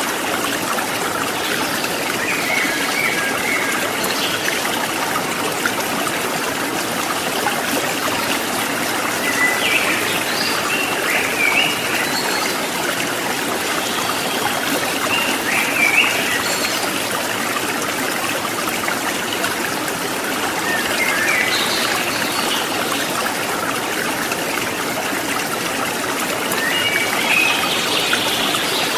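Water babbling and trickling steadily over rocks in a stream. A few short bird chirps come through now and then.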